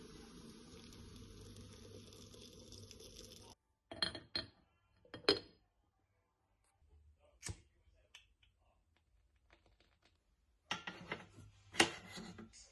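A few sharp clinks and knocks of tableware being handled, set apart by quiet gaps, with a faint steady hiss in the first few seconds and a busier run of clinks near the end.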